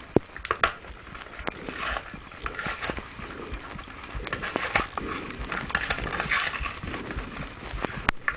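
Handling noise from a small plastic toy and its packaging: irregular clicks, taps and rustling as it is taken out and handled.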